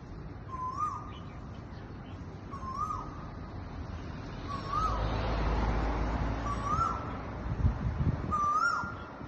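Asian koel calling: five short rising-then-falling 'ko-el' notes, evenly spaced about two seconds apart. A low rumble swells and fades in the middle.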